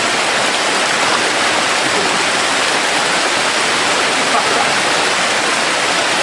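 Waterfall rushing and splashing steadily, loud and close by.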